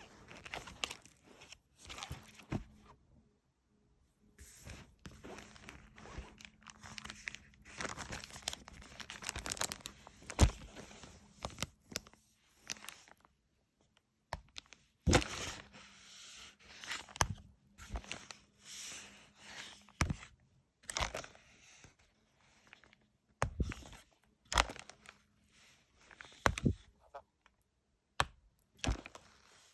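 Paper pages and sticker sheets of a sticker and activity book being handled and turned: irregular rustling and crinkling with sharp taps and flicks.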